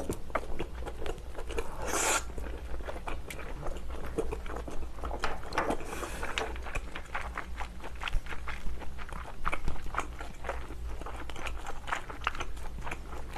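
Close-miked chewing of a big mouthful of abalone, with many small wet clicks and crunches and a louder noisy burst about two seconds in.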